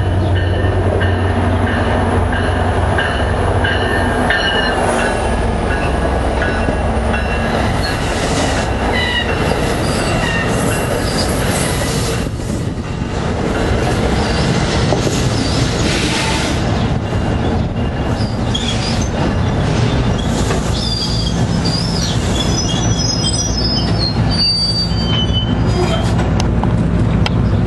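NJ Transit push-pull train with PL42AC diesel locomotive 4026 rolling past, its diesel engine humming steadily under the noise of wheels on rail. High-pitched wheel squeal cuts in at times and is strongest near the end.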